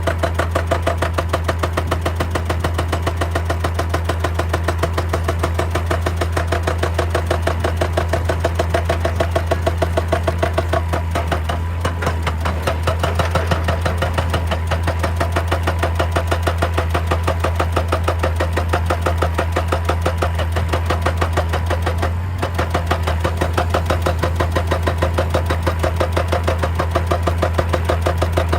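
Excavator's diesel engine running steadily, with an even, rapid pulsing over a constant low drone.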